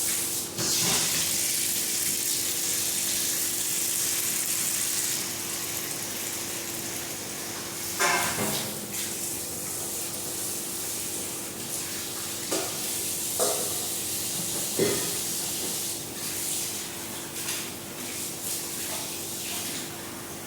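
Tap water running into a kitchen sink, with a few short clanks and knocks in the second half.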